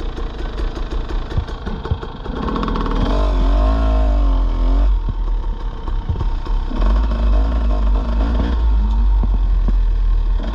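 Dirt bike engine ticking over at low speed, then revving up and down under throttle as the bike pulls away about two seconds in; it eases off around the middle and picks up again soon after.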